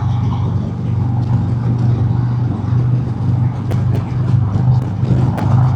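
Harley-Davidson Road King's Milwaukee-Eight V-twin running steadily at highway cruising speed, about 70 mph, with a low pulsing drone under road and wind rush.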